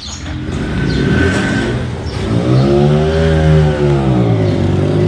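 A motor vehicle engine revving up and down in pitch twice, with noisy traffic-like sound rising beneath it in the first couple of seconds.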